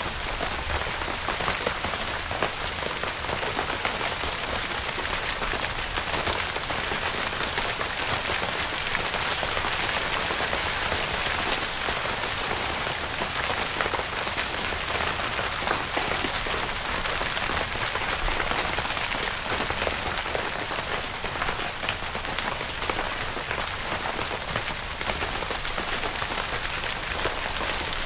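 Rain falling steadily on a tent, a dense, even patter of many drops on the fabric.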